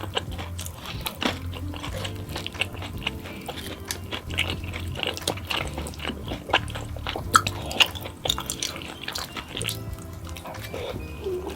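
Close-miked eating sounds: a person biting and chewing food, with many short, sharp, crunchy and wet clicks. Background music plays underneath.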